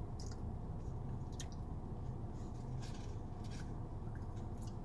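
Someone chewing a mouthful of burrito, with soft wet mouth clicks scattered through, over a steady low hum.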